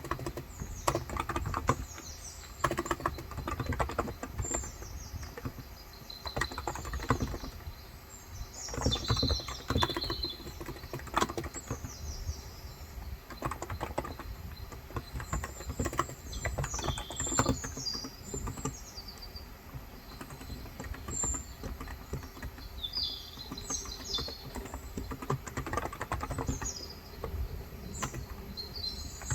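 Typing on a Cox Endeavor electrostatic capacitive (35 g) tenkeyless keyboard: irregular runs of key presses with short pauses. Birds chirp in the background throughout, with short high calls.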